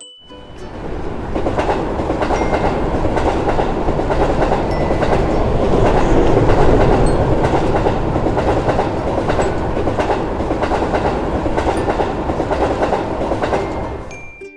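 A train passing by, with the wheels clicking rhythmically over the rail joints. It builds up over the first couple of seconds, is loudest around the middle, and dies away near the end.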